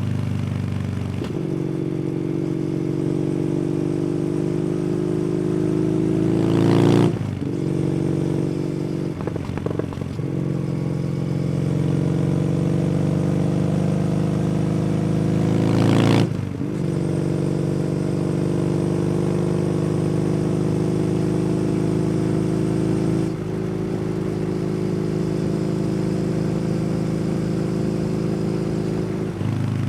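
Kawasaki W800's air-cooled parallel-twin engine breathing through an aftermarket SC Project exhaust, pulling hard with its note climbing. It shifts up at about seven seconds and again at about sixteen seconds, each time with a brief loud burst. After that it settles into a steady cruise.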